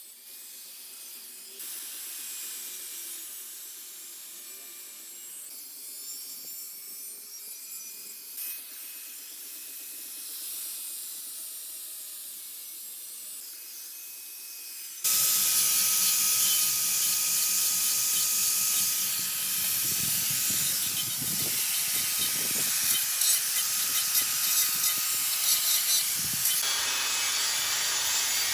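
Power grinder cutting the corners off a hardened-steel motorcycle rear rack: a steady, hissing grind with a high whine. It is quieter at first, then turns suddenly much louder about halfway through.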